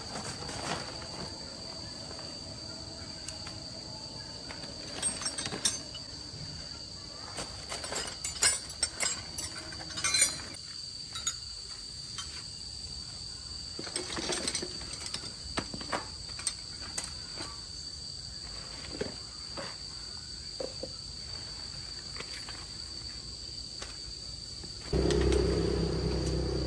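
Steady high-pitched chirring of crickets, with scattered sharp clicks and knocks in bunches. Near the end a louder, steady sound with stacked tones comes in.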